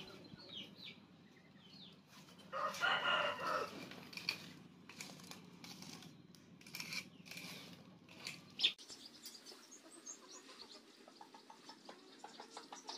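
Birds calling in the background: short chirps throughout and a louder, longer call lasting about a second around three seconds in. The background changes abruptly about nine seconds in.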